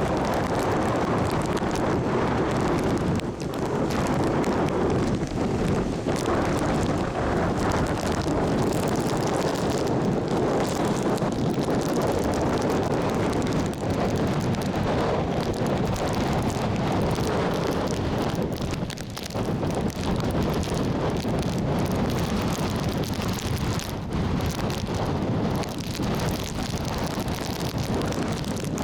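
Hurricane winds blowing with rain, buffeting the microphone in a dense, steady noise that eases briefly twice, about three seconds in and again past the middle.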